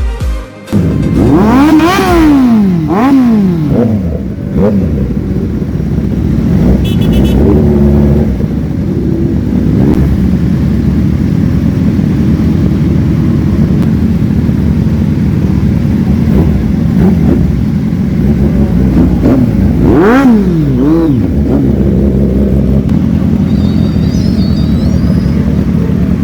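Superbike engine running hard, its pitch climbing and dropping in quick sweeps as it revs through the gears about two seconds in and again about twenty seconds in, and holding a steady loud drone in between.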